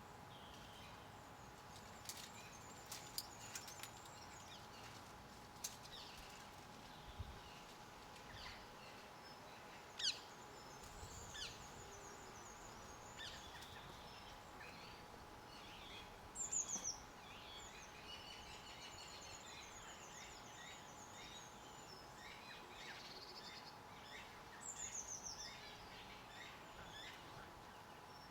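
Small garden birds chirping and calling: scattered short, high, sharp calls with a few quick down-slurred notes and a brief rapid series near the end. A faint steady hum lies underneath.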